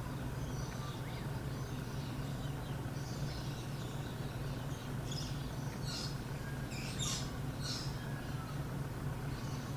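Birds chirping in short high calls, several in a row from a few seconds in, over a steady low background hum.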